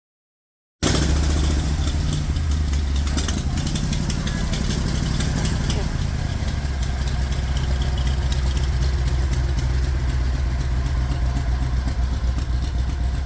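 A motor cuts in sharply about a second in and runs steadily to the end with a deep, even low hum.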